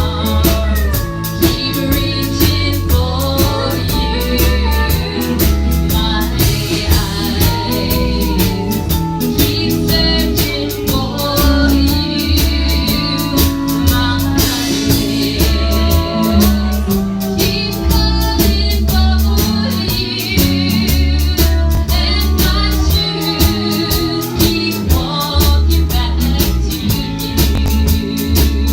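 A band playing with a woman singing lead, backed by guitar and a drum kit keeping a steady beat.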